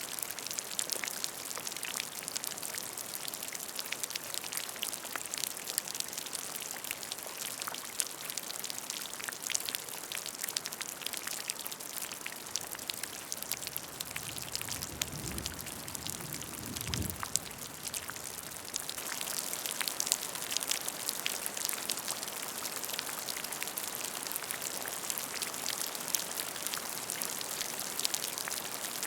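Steady rain falling on a puddle: a dense patter of countless small drop splashes. About halfway through, a brief low rumble swells and fades.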